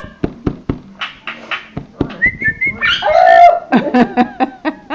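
Princess parrot vocalizing: a short whistle about two seconds in, then a loud harsh call and a quick run of chirps, after a series of sharp clicks near the start.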